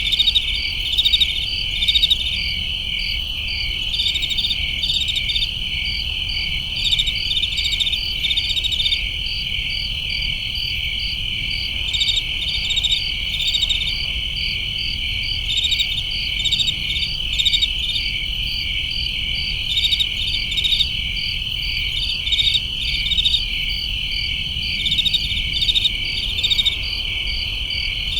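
Chorus of crickets: a continuous high trill with short pulsed chirps in quick groups laid over it, recurring every second or two, above a low steady hum.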